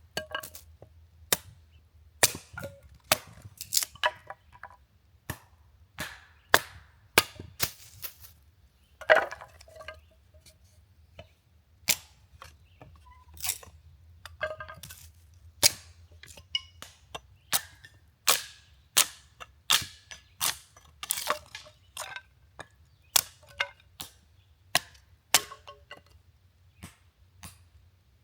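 A long run of sharp cracks and knocks at uneven intervals, about one or two a second, some with a brief ringing after the hit.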